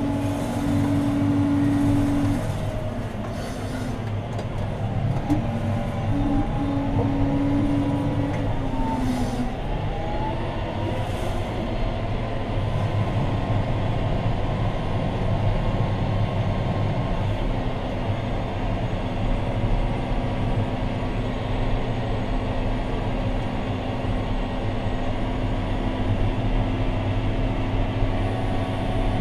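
John Deere 6215R tractor's six-cylinder diesel engine running steadily under ploughing load, heard from inside the cab. A steady whine runs over it, breaking off between about two and nine seconds in, while a few higher tones rise and fall.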